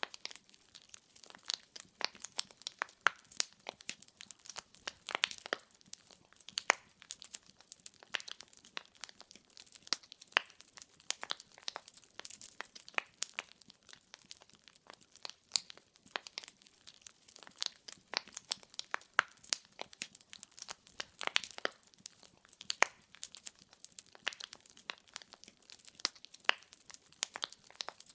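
Firewood logs burning in a fireplace, crackling with irregular sharp pops and snaps over a faint hiss.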